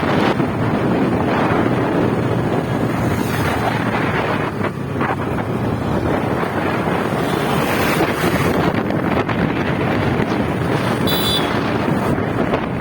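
Wind rushing over the microphone on a moving motorcycle, a loud steady rush. A brief high beep sounds about eleven seconds in.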